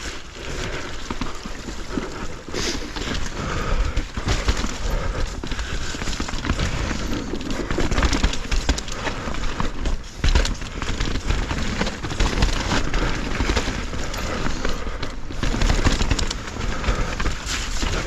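Mountain bike riding down a rough, wet trail: tyres rolling and skidding over dirt and roots, with frequent knocks and rattles from the bike over bumps and wind rushing over the helmet-camera microphone.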